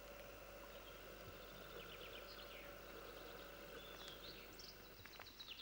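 Faint birdsong: short chirps and trills from small birds, starting about two seconds in, over a steady low hiss and hum.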